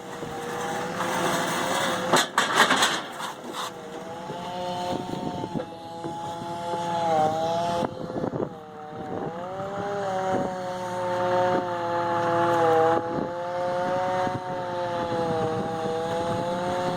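Pickup truck engine pulling steadily under load as it pushes a dead truck up onto a trailer, its pitch holding with brief dips. A cluster of knocks and scraping comes about two to three seconds in.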